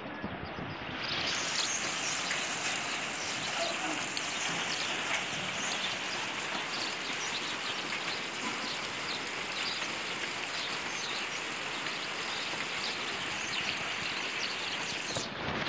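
Steady rain falling, a dense patter of drops that grows louder about a second in and then holds steady.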